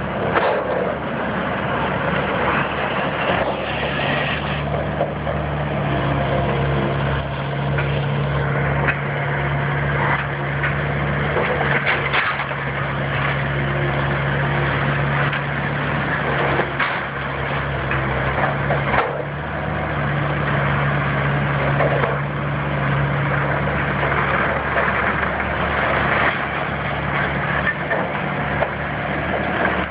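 A heavy machine's engine runs steadily while the wooden structure of a house cracks, splinters and crunches as it is torn down.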